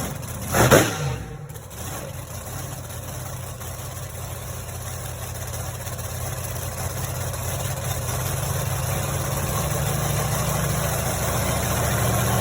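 Monster truck engine: a short loud burst less than a second in, then a steady low idle that grows slowly louder.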